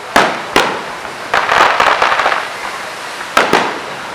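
Fireworks going off: sharp bangs of bursting shells, two near the start and two more near the end, with a stretch of dense crackling in between.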